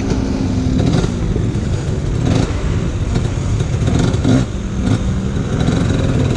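Hard enduro dirt bike engine revving up and down in bursts as the rider works the throttle through a difficult section, with a couple of sharp knocks along the way.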